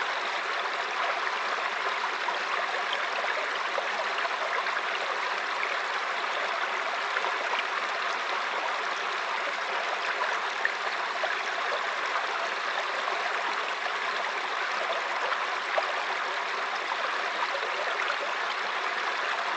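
Mountain stream flowing over rocks: a steady rushing babble of water with small splashes throughout.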